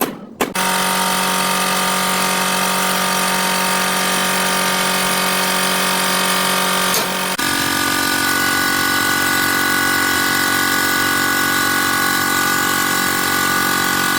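A last hammer strike or two, then a motor-driven workshop machine starts up and runs with a steady, loud hum, shifting to a different pitch once about seven seconds in.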